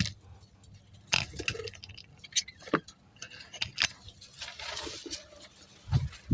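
Sharp taps and clinks in a budgie's cage, about five scattered over several seconds, the loudest near the end, with a brief rustle midway.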